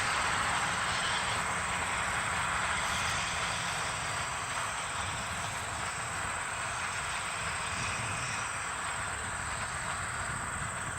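East Broad Top narrow-gauge train running along the track: a steady rolling rumble and rail noise that eases off slightly.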